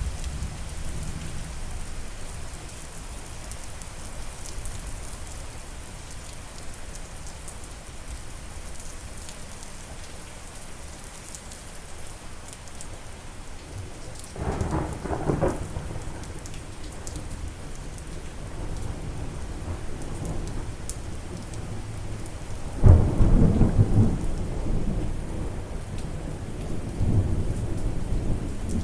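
Steady rain falling, with rolls of thunder: a short rumble about halfway through, then a louder, longer peal that is the loudest moment, and a smaller rumble near the end.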